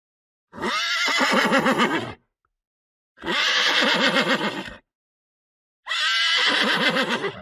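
Horse whinnying: the same wavering whinny played three times, each about a second and a half long, with silence between.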